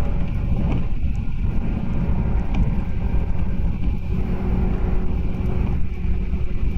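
JR 185 series electric train running through a station without stopping: a steady rumble of wheels on rail. A faint steady hum comes in about four seconds in.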